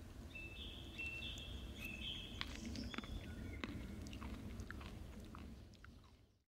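A person chewing a mouthful of kohlrabi salad with tiger nuts, seeds and herbs, with scattered crisp crunches. High steady whistling tones sound during the first three seconds, and the sound fades out near the end.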